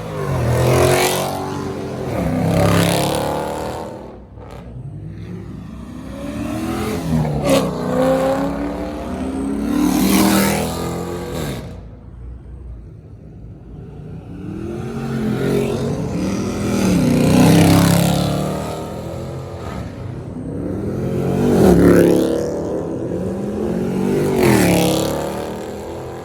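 Loud car engines revving one after another, their pitch climbing and falling about seven times.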